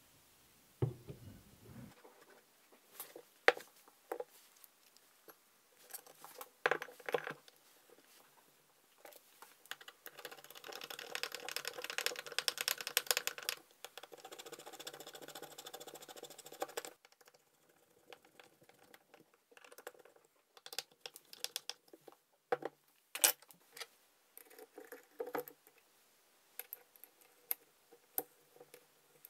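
Small metal clicks and taps of a Zenith 36 IV carburettor being reassembled by hand on a wooden workbench. In the middle comes a run of fast, even ticking lasting about seven seconds as a tool works at the carburettor.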